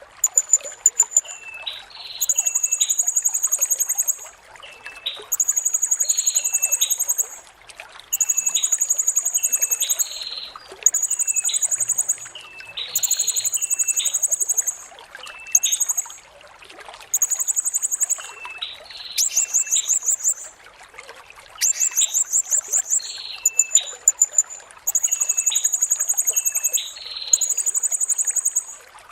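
Blue-crowned hanging parrot (serindit) singing: about a dozen very high, rapid buzzy trills, each one to two seconds long, with short sharp chip notes between them.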